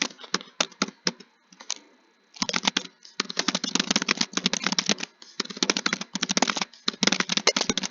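Rapid typing on a keyboard: a dense run of key clicks. About half a second in it thins to a few scattered keystrokes, then picks up again steadily from about two and a half seconds in, with short pauses between bursts.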